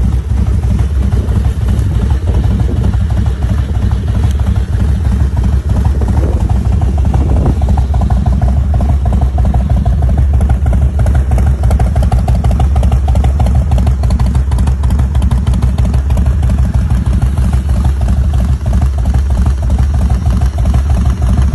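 2001 Harley-Davidson Heritage Softail's 88 ci (1450 cc) Twin Cam V-twin idling steadily through aftermarket Vance & Hines exhaust pipes, with a deep, even beat of firing pulses.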